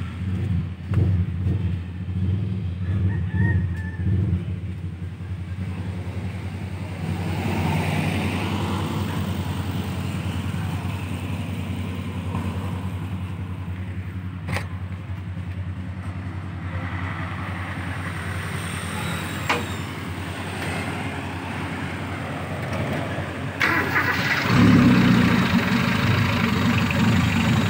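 Toyota 4K four-cylinder engine running unevenly and misfiring, getting louder about 24 seconds in. The mechanic traces the misfire to a No. 1 spark plug closed to no gap, possibly struck by the piston.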